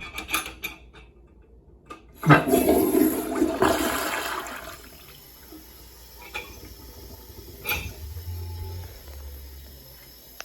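Toilet flushing: a few clicks, then a sudden loud rush of water about two seconds in that fades away over the next few seconds.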